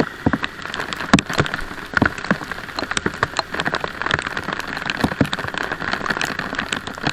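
Rain falling, with many irregular sharp raindrop taps close to the microphone over a steady hiss.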